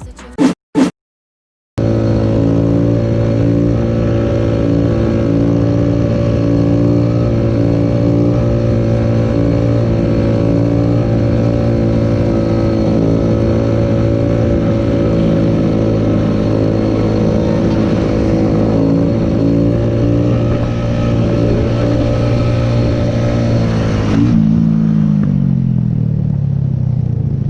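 Motorcycle engine running at a steady speed, with road and wind noise. Its pitch falls near the end as it slows down.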